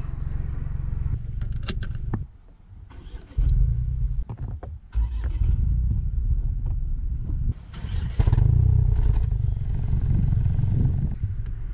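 Ford Puma ST's 1.5-litre turbocharged three-cylinder engine running, heard in several short cuts with abrupt changes in level, plus a few sharp clicks and knocks. It is loudest from about eight seconds in.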